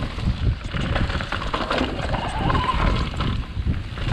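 Wind buffeting the microphone over a bicycle rolling fast down a rough downhill trail, with a steady low rumble and many small rattles and knocks.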